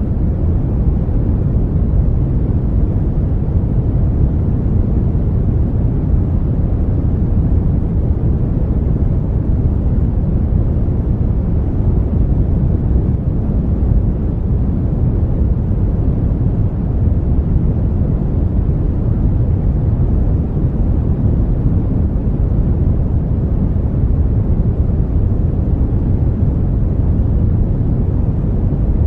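Brown noise: a steady, even rumbling hiss, strongest in the low end and falling away toward the highs, with no changes.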